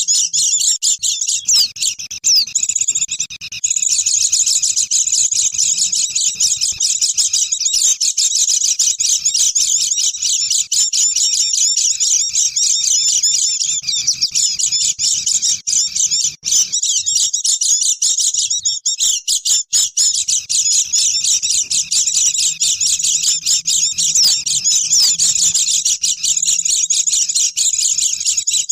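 A flock of white-eyes (pleci) twittering all at once in a dense, rapid, high-pitched chatter that barely pauses: a lure call recording played to draw wild birds in.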